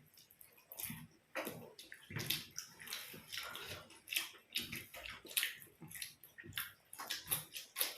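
Wet eating sounds: irregular chewing and smacking of soft food, several short bursts a second.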